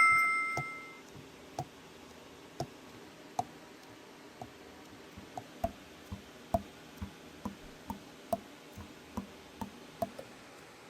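Light clicks and taps at roughly two a second, each with a short pitched pop that changes in pitch from one to the next: the keys of a Selmer Super Action 80 Series II soprano saxophone being worked, with pads closing on the tone holes. A brief ringing tone opens the passage and dies away within a second.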